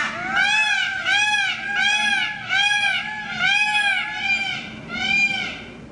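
Peacock calling: a quick series of loud calls, each rising and falling in pitch, about two a second, breaking off near the end.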